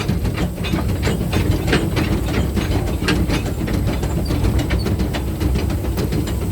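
Small steam train running along the track, heard from on board: a steady low rumble with a rapid, irregular clatter of clicks from the wheels and running gear, and a light hiss of steam.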